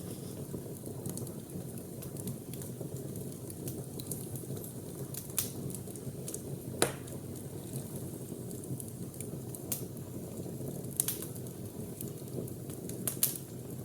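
Wood fire burning with a steady low rush, broken by scattered sharp crackles and pops, the loudest about seven seconds in.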